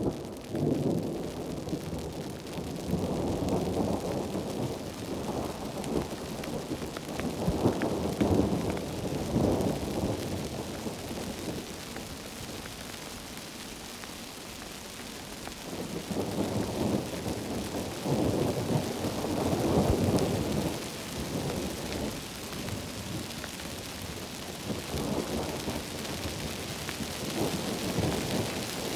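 Heavy rain hissing steadily, with rolling thunder rumbling in long swells: loudest over the first ten seconds, again about two-thirds through, and more faintly near the end.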